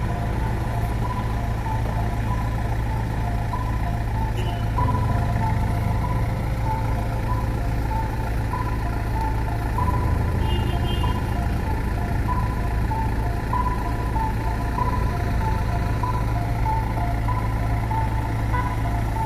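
Motor vehicle engines running and idling in stalled traffic, a steady low rumble, with a faint short note repeating about twice a second.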